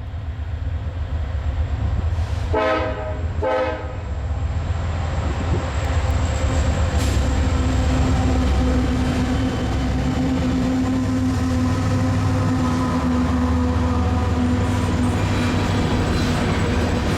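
Union Pacific freight train: the locomotive horn sounds two short blasts about a second apart, then the diesel locomotives and rolling train make a steady low rumble that grows louder over the next few seconds and holds.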